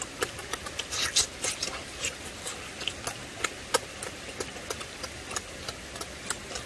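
Chewing and lip-smacking of two people gnawing braised pork leg off the bone: an irregular run of short wet clicks and smacks, several a second, over a faint steady hiss.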